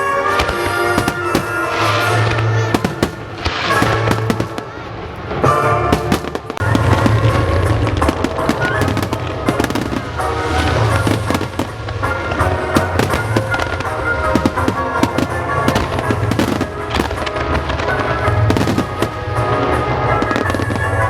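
Fireworks display shells bursting in a dense run of bangs and crackling, over loud accompanying music with a pulsing bass.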